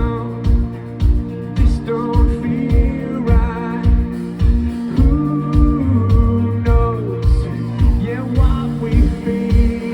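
Live rock band playing through a PA: a steady kick drum beat about twice a second under sustained guitar and keyboard chords, with a sung lead vocal.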